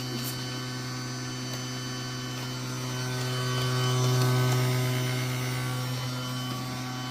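Henry vacuum cleaner's motor running with a steady hum, swelling louder about four seconds in and then easing back.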